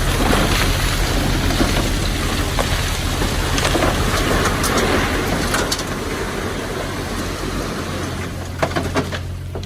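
Heavy construction machine's diesel engine running steadily under a loud, noisy rush, with a few sharp clicks near the end.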